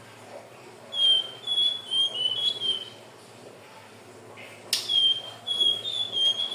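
Indigo flycatcher (sikatan ninon) singing: two quick phrases of short, high whistled notes about two seconds apart. A sharp click comes just before the second phrase.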